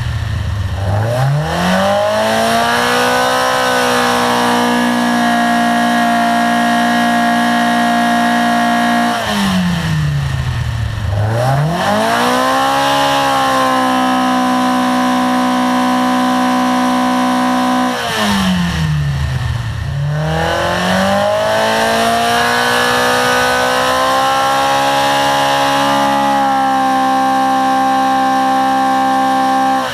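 Race-built 2.24-litre all-steel Ford Pinto four-cylinder with twin sidedraught carburettors running on an engine dynamometer. Three times its revs drop sharply, then climb back over a few seconds and hold steady at high revs for several seconds.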